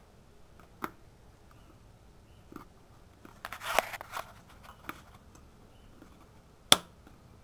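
Plastic air-intake and air-box parts of a 1985 Yamaha Maxim XJ700 being handled and pressed into place by hand: a few light clicks, a short scraping rustle a little past halfway, and one sharp snap near the end.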